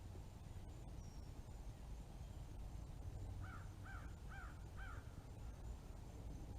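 Red-bellied woodpecker fledgling calling: four short calls about half a second apart, each rising and falling in pitch, starting about halfway through.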